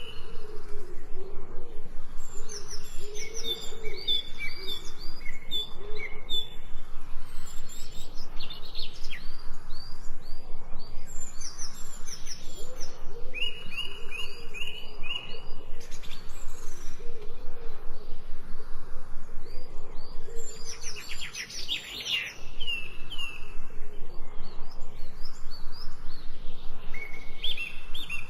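Birds singing, with repeated runs of short high chirping notes, over a fast, even pulsing background.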